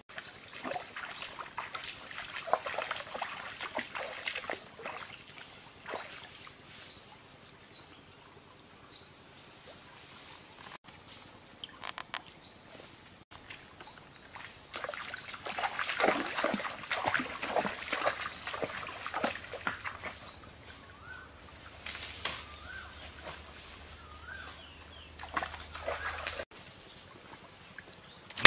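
A bird calling in short high chirps that fall in pitch, about two a second, over irregular clicks, knocks and rustling from something being handled.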